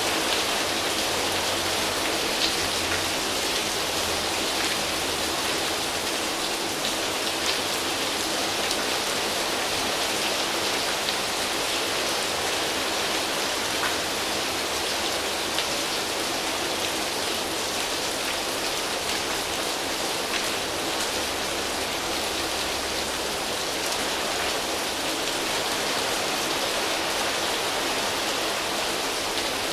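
Steady rain falling on foliage leaves: an even hiss of many drops with scattered individual drop ticks.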